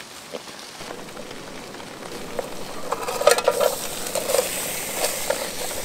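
Food sizzling in a pan, growing louder about two seconds in, with a run of pops and crackles that is thickest around the middle.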